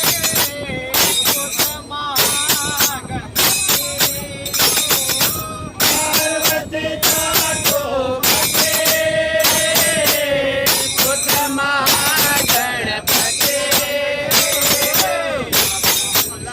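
Group singing of a Hindu devotional bhajan, with held, wavering notes over a steady beat of jingling metal percussion.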